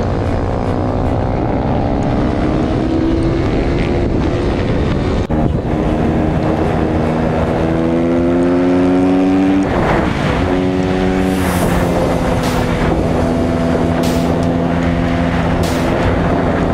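Off-road vehicle engine revving up through the gears, its pitch rising, dropping back about five and ten seconds in, then holding a steady cruise, with wind rushing on the microphone.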